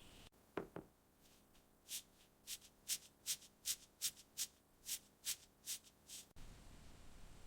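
A run of about a dozen short, hissing scraping strokes, roughly two to three a second, like hand rubbing or sanding, after two softer swishes at the start.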